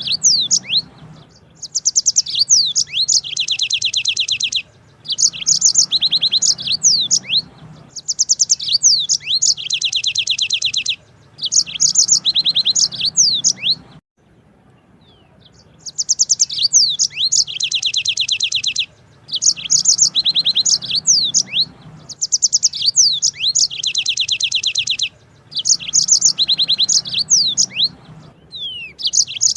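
Yellow-fronted canary (Mozambique canary) singing long rolling trills: phrases of a few seconds made of fast repeated high notes and chirps, separated by short pauses, with a longer pause about halfway through.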